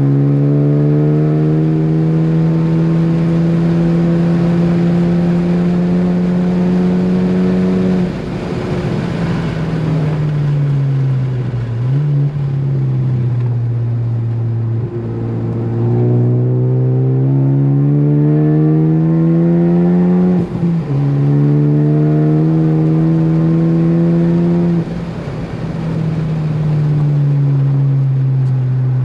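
Ford Focus ST engine running hard on a race track: revs hold high, fall off as it slows for a corner, climb through a long pull, drop sharply at an upshift about two-thirds through, then fall again as it lifts for the next corner.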